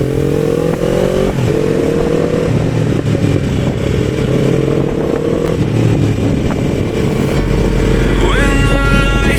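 Motorcycle engine pulling away, its pitch rising through the gears and then holding steady at cruising speed, with a deep rumble of wind and road noise. Near the end a high, pitched tone with several notes sets in over the engine.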